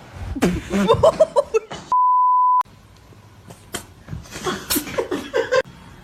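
A steady, pure beep of about two-thirds of a second that blanks out all other sound, like a censor bleep laid over the audio. Before and after it comes a person's voice in short bursts.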